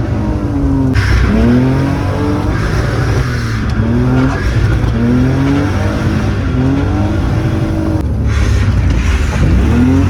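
Car engine driven hard, its pitch climbing and dropping again and again as it revs through short bursts of acceleration and shifts. A hissing rush comes in about a second in and again near the end.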